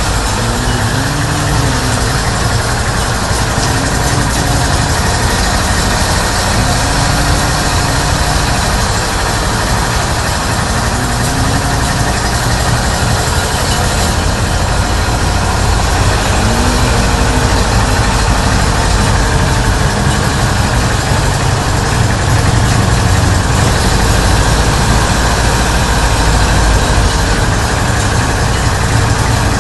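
Himxen 35-horsepower engine running steadily at idle, a constant low drone that grows slightly louder about halfway through.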